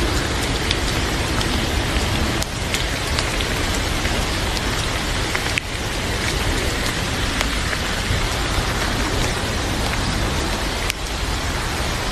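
Heavy rain falling steadily, a dense even hiss with scattered sharp ticks of drops.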